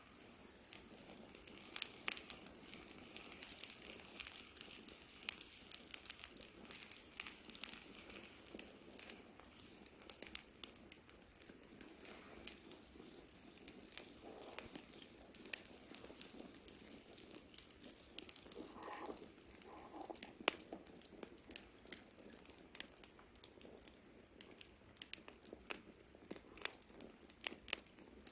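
Wood campfire burning, crackling with quick, irregular sharp snaps and pops over a soft hiss.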